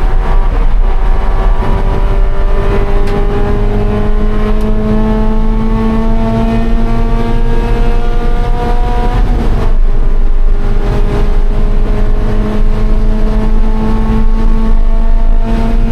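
2013 Scion FR-S's 2.0-litre flat-four engine pulling hard under acceleration, pitch climbing steadily for about nine seconds; it drops with an upshift about two-thirds of the way through, then climbs again in the next gear.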